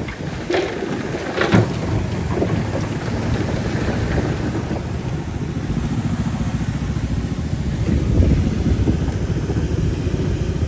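Heavy diesel earthmoving machinery running under load with a steady low rumble, with two sharp metallic clanks about half a second and a second and a half in.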